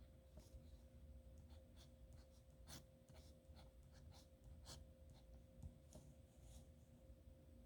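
Nib pen scratching on paper in short, irregular strokes, faint, over a steady low electrical hum.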